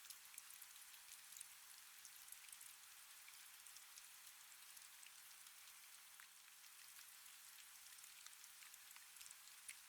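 Faint, steady rain, a soft hiss with many small drops ticking through it.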